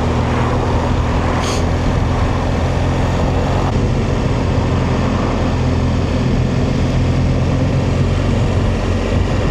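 BMW R1200GS boxer-twin motorcycle engine running at a steady cruise, its pitch holding even, under constant wind and road noise.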